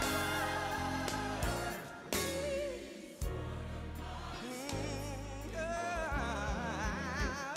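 Gospel song playing: a singer with wide vibrato over a low bass and backing instruments.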